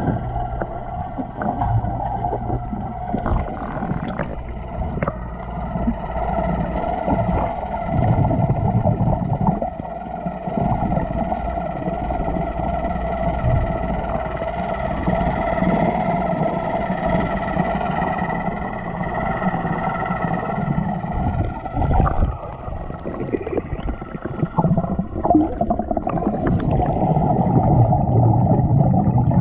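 Small electric motor of a battery-powered Thomas TrackMaster toy train running underwater with a steady hum, amid water noise and occasional knocks.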